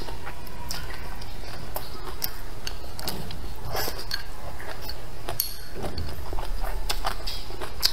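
Close-up eating sounds of a person chewing a mouthful of food, with irregular wet smacks and sharp clicks of mouth and teeth over a steady low background hum.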